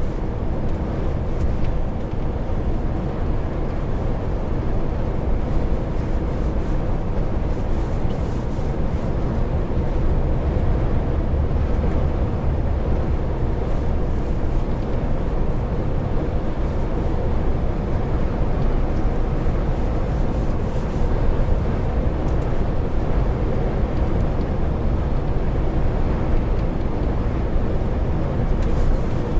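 Heavy truck's diesel engine running at a steady speed under way, with a continuous low drone and road noise.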